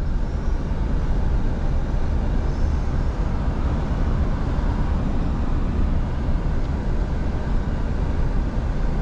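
Scania V8 diesel truck driving at a steady speed: a constant low drone of engine and road noise, with a deep rumble underneath.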